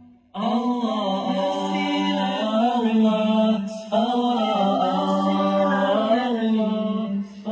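Girls' voices chanting a nasheed in long, held notes that bend in pitch, in two long phrases broken by a short gap about four seconds in.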